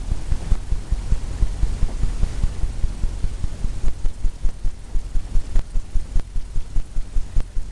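Fan brush tapping repeatedly against a stretched canvas, a steady run of low, dull thumps about four a second.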